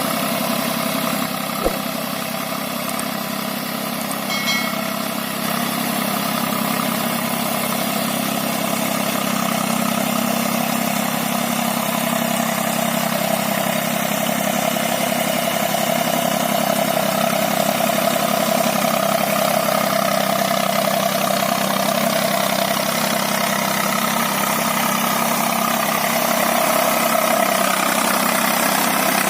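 Eicher 485 tractor's three-cylinder diesel engine running steadily, with a single short click about a second and a half in.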